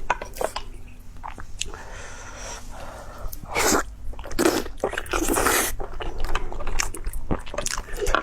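Close-miked eating sounds: a person biting and chewing food, with crunchy bites and sharp mouth clicks, loudest about halfway through.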